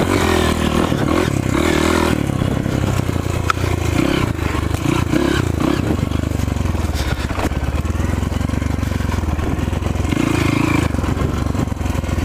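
Off-road trail motorcycle engine running and revving, its pitch rising and falling repeatedly as the throttle is worked.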